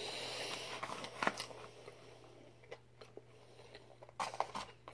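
Soft chewing and mouth sounds of a person eating, with a few scattered sharp clicks. Near the end a paper plate is handled.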